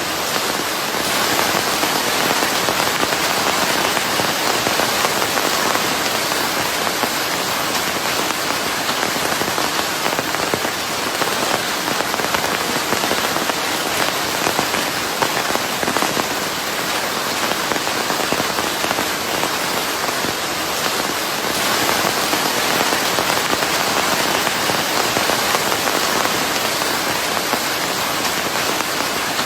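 Steady, dense rain falling on a surface, a constant patter of drops mixed into a smooth hiss of white noise.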